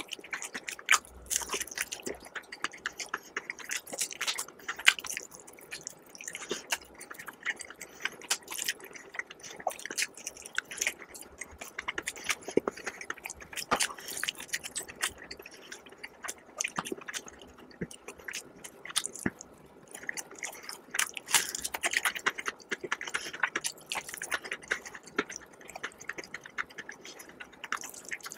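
Close-miked chewing and biting of crispy fried chicken: the breaded crust crackles and crunches in many quick, irregular clicks, with wet chewing between bites.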